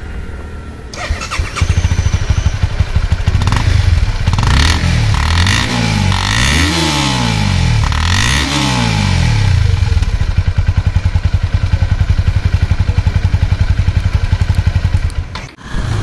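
2012 Honda CBR250R's single-cylinder engine revved three times, its pitch climbing and falling back each time, then idling with an even pulse.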